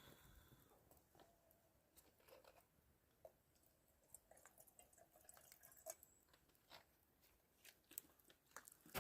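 Faint, irregular small clicks and crackles, close up, with a sharper click about six seconds in and another near the end.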